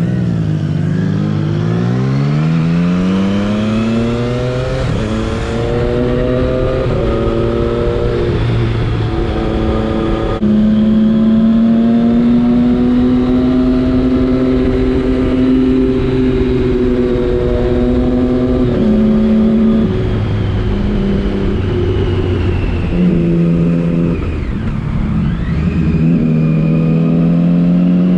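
Motorcycle engine under riding load. The revs climb in the first few seconds and drop briefly at each gear change, then hold steady for several seconds, then fall and climb again through further shifts near the end.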